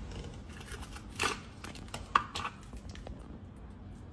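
Faint rustling and handling noise, with a couple of light knocks about a second in and again near two seconds.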